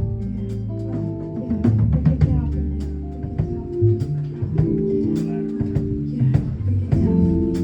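Live band music: held melody notes over a drum kit beat and guitar, from a saxophone-led instrumental performance.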